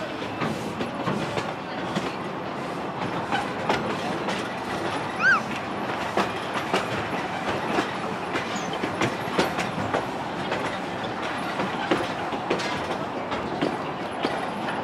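Two-foot narrow-gauge steam train running, heard from an open passenger car: a steady rumble with the wheels clicking over rail joints. A brief high squeal rises and falls about five seconds in.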